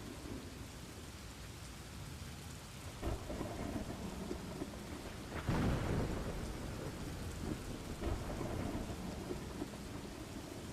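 Steady rain with rolling thunder: a rumble builds about a third of the way in, a louder thunderclap comes about halfway through, and it rumbles on before fading back to the rain.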